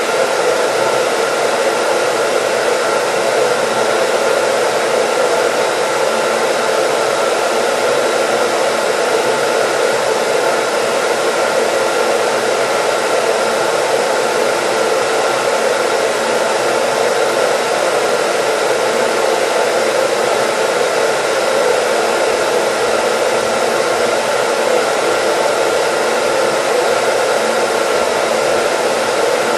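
Hair dryer running steadily: an even, unchanging rush of air with a faint motor hum under it.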